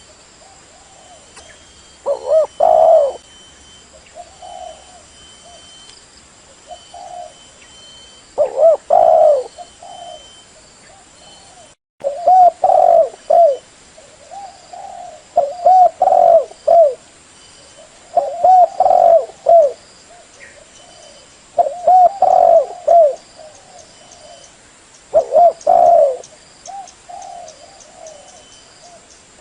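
Spotted dove (chim cu gáy) decoy cooing: loud, low coo phrases repeat every few seconds, with softer coos in between. This is the call played to lure wild doves in trapping.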